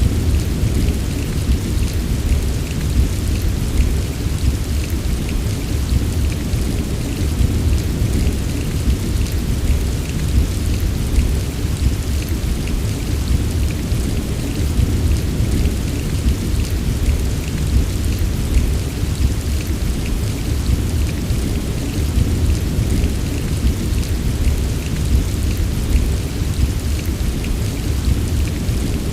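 Steady heavy rain, a dense even patter of drops over a continuous deep rumble, with no single crack or clap standing out.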